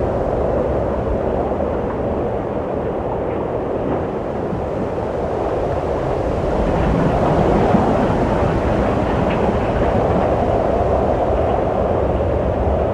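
Wind blowing in a steady low rush, swelling a little past halfway and easing again.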